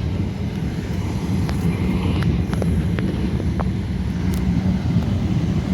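Steady low rumble of a train approaching along the track, with a few faint clicks.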